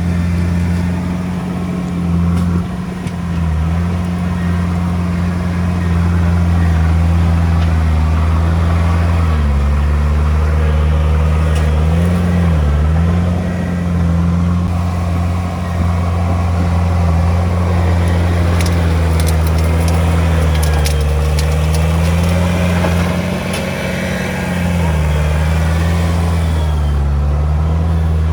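Komatsu D31P crawler bulldozer's diesel engine working steadily, its pitch dipping and recovering several times as it takes load. A cluster of sharp clinks of stone comes about two-thirds of the way through.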